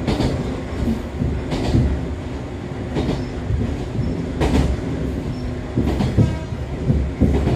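Echizen Railway MC6101-series electric railcar running between stations, heard from inside the car. A steady low rumble is broken by the wheels clicking over rail joints about every second and a half, with two quick double clicks near the end.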